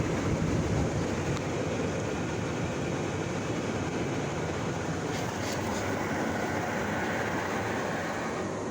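Car wash undercarriage jets spraying high-pressure water against the underside of a car, a steady, pretty powerful rushing heard from inside the cabin.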